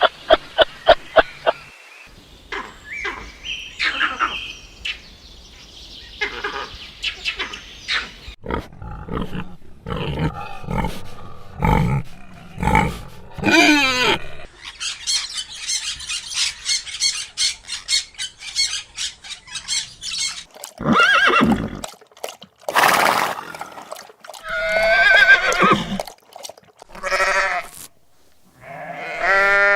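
A string of different farm animal calls, changing every few seconds as one short clip follows another, with a wavering bleat-like call near the end.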